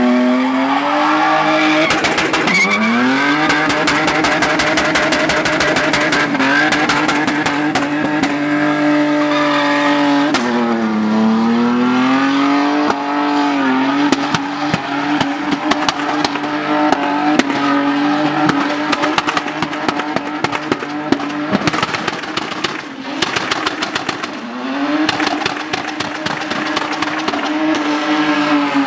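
Toyota Land Cruiser engine held at high, steady revs through a smoking donut burnout, its tyres spinning on the asphalt, with a dense crackle. The revs dip and pick back up a few times, most clearly around the middle and near the end.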